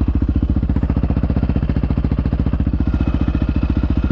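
Motorcycle engine running at a steady, unchanging speed, its exhaust beats coming as an even rapid pulse.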